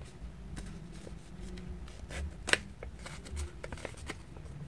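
Paper being handled and folded into a paper airplane: soft rustling and a few crisp creasing clicks, with one sharper snap of the paper about two and a half seconds in.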